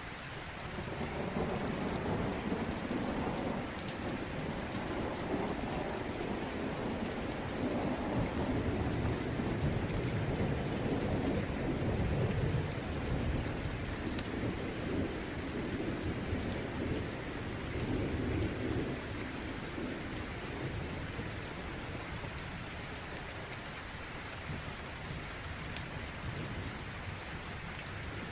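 Steady rain with a long, low rumble of thunder that swells and rolls through the first two-thirds before fading, and scattered sharp crackles of a wood fire.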